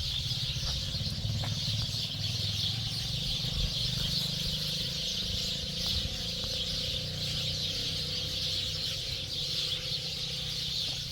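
A flock of small birds chattering and calling all at once in a tree, a dense steady racket, typical of birds gathering to roost before sunset. A low rumble runs underneath.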